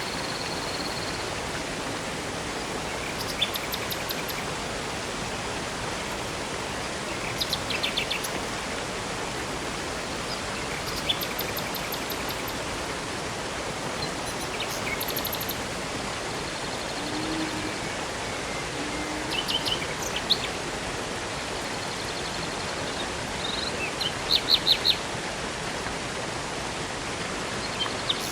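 Steady rush of river and waterfall water, with songbirds chirping and trilling every few seconds over it; the loudest is a quick run of sharp chirps near the end.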